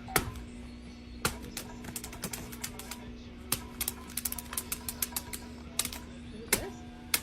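A run of sharp, irregular clicks and taps, some coming in quick clusters, over a steady low hum.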